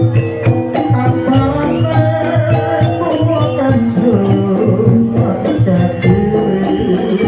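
Jaranan (kuda lumping) ensemble music playing loudly: a melody moving in stepped notes over a steady run of drum strokes.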